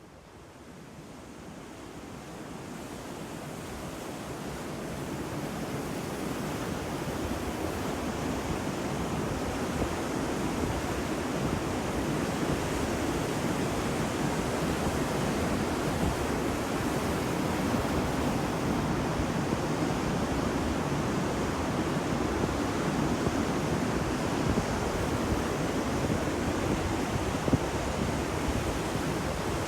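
Ocean waves washing onto a beach, a steady surf rush that fades in over the first several seconds.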